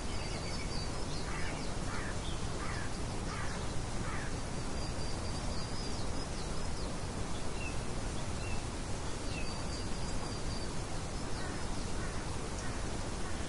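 Steady wind noise as a constant hiss, with small birds chirping over it: a few short calls in the first seconds and brief high trills three times.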